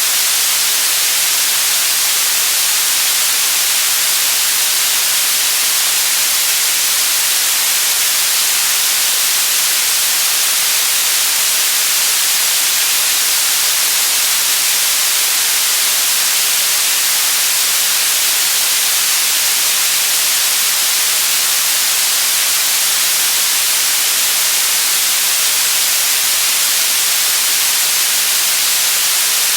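Steady white noise: an even, unchanging hiss that is strongest in the treble and thinner in the bass.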